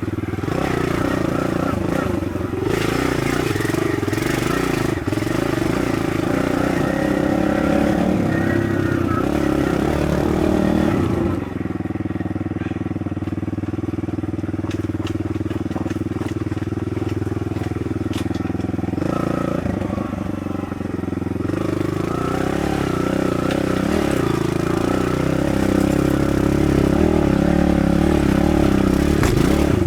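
Kawasaki KLX110's small four-stroke single-cylinder engine running as the dirt bike is ridden, revs rising and falling. It settles to a lower, steadier note for several seconds past the middle, then picks up again.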